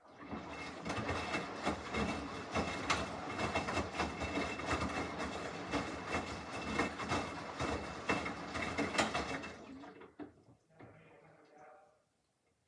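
Samsung washing machine mid-cycle, its drum turning with the wash load churning and clattering for about ten seconds, then stopping.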